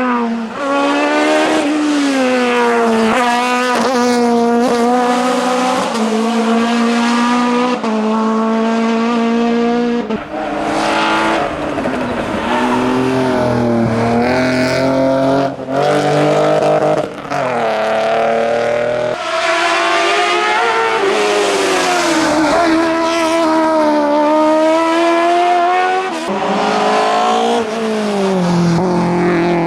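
Hillclimb race car engines at full throttle, the pitch climbing through each gear and dropping sharply at gear changes and on braking. Several abrupt breaks interrupt the sound.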